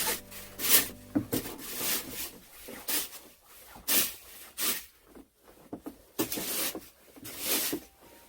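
A series of short scraping strokes, roughly one a second and irregularly spaced, after background music fades out in the first second.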